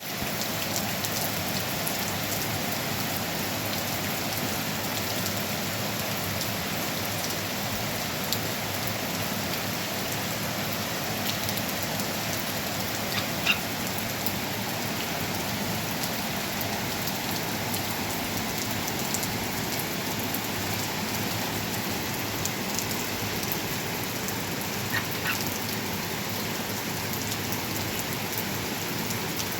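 Steady rain falling, with a few sharper drop hits now and then, the loudest about halfway through.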